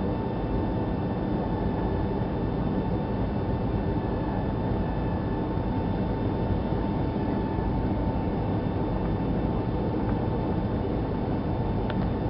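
Boeing 757-300 jet engines heard from inside the cabin: a steady rumble with a steady whine running through it, the level holding even.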